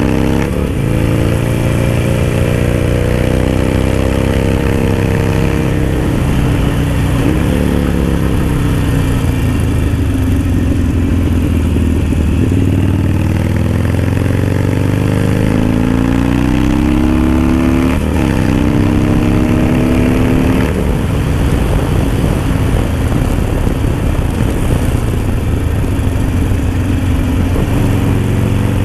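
Harley-Davidson Sportster Roadster's V-twin running through an aftermarket Dan Moto exhaust while riding. Its pitch climbs as it accelerates and drops sharply at each gear shift, several times over.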